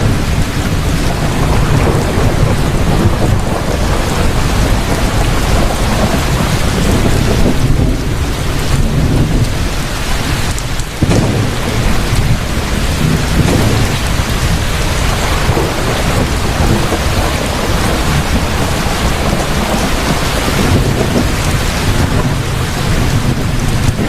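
Heavy rain pouring steadily with a continuous deep rumble of thunder underneath.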